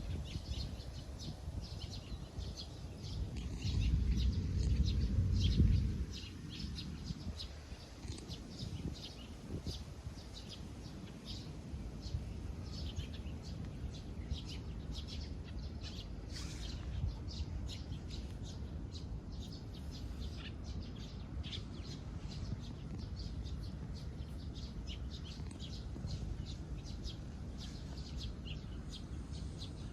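Small birds chirping in quick, repeated short notes throughout, over a steady low outdoor background. A low rumble swells for a few seconds early on.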